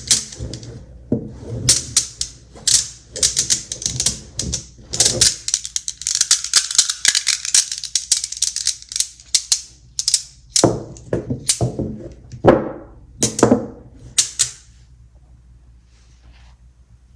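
Small magnet balls clicking and snapping together: scattered clicks, then a fast, dense rattle of many tiny clicks a few seconds in, followed by a handful of separate, sharper snaps.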